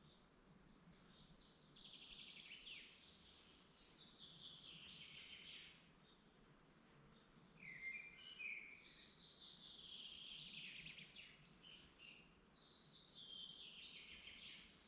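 Faint birdsong from several songbirds: a run of quick song phrases repeating every few seconds, with a brief cluster of chirps about halfway through.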